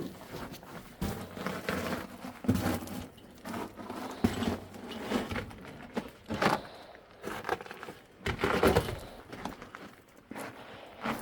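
Irregular scuffing, crunching and knocking of someone moving over loose rock and debris, with several sharper knocks along the way.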